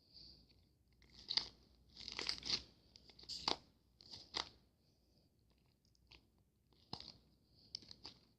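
Close, crisp crunching and crackling noises in irregular clusters, busiest in the first half, with a few sharp clicks near the end.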